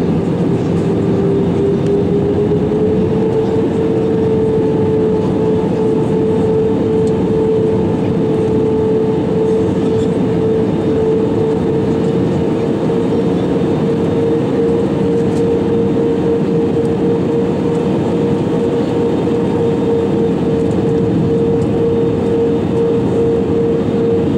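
Airbus A320-200 engines running steadily, heard inside the passenger cabin as a loud rumble with a steady whine that rises slightly in pitch a few seconds in and then holds.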